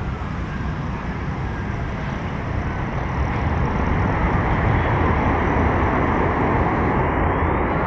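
Jet airliner engine noise, a steady rumble that grows louder about three seconds in, with faint tones sliding in pitch as the aircraft passes.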